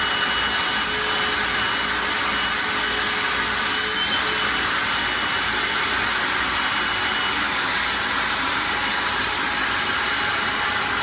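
Vacuum cleaner running steadily, its motor giving a constant high whine over a rushing hiss of air.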